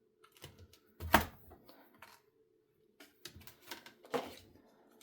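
Craft-desk handling noise: a few sharp knocks and clicks, the loudest about a second in, as stamps and a MISTI stamping platform are handled, over a faint steady hum.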